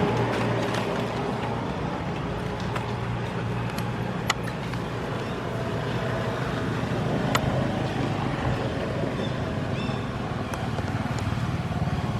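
A motor vehicle engine running steadily, with two sharp clicks about four and seven seconds in.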